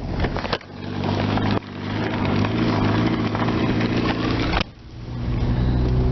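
Motor vehicle engine running steadily, with brief dips in level about half a second, a second and a half, and nearly five seconds in.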